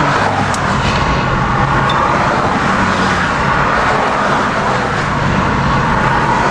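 A motor vehicle's engine running steadily, with a low hum under an even rushing noise.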